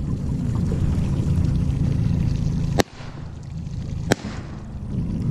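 Boat's outboard motor running slowly with water trickling along the hull; about halfway the motor sound drops off at a sharp click, and a second sharp click follows over a second later.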